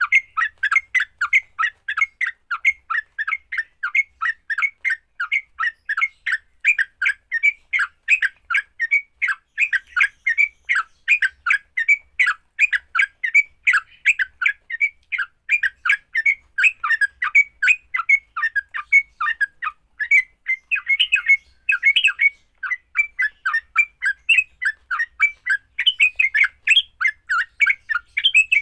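Yellow-vented bulbul (trucuk) giving its aggressive 'fighting' call: a rapid, unbroken series of harsh chirps, about three or four a second.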